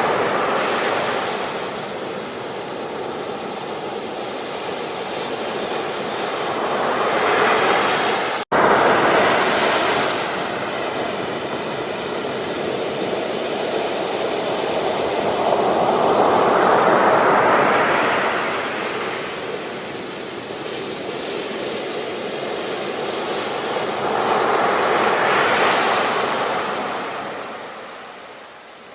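Ocean waves breaking on a beach: a wash of surf that swells and fades about every eight to nine seconds. The sound cuts out for an instant about a third of the way in.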